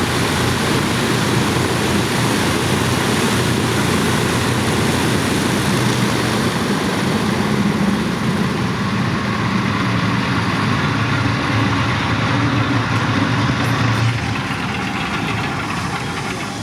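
Avro Lancaster's four Rolls-Royce Merlin V12 engines running together on the ground, a loud, steady, dense drone. It eases down somewhat about fourteen seconds in.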